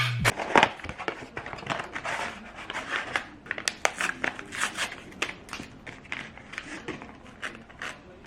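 Background music cuts off right at the start. It is followed by handling noise: a run of irregular small clicks and crinkles, several a second, that grows fainter toward the end.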